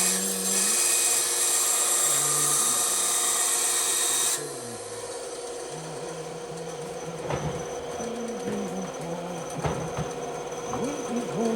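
Bandsaw cutting wood: a loud, even cutting hiss over the steady motor tone, which drops away suddenly about four seconds in as the cut ends, leaving the saw running more quietly.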